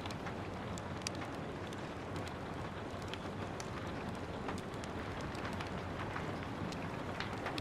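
Steady patter of rain with the sharp, irregular pops and crackles of a wood fire burning in a fireplace.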